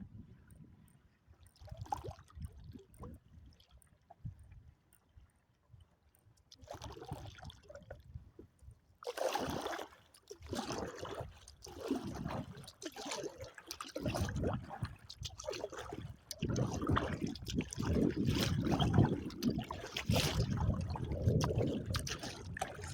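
Water splashing and trickling around an Argo 100XR kayak as it is paddled through choppy water, sparse at first and getting louder and busier about nine seconds in, with a low rumble underneath in the second half.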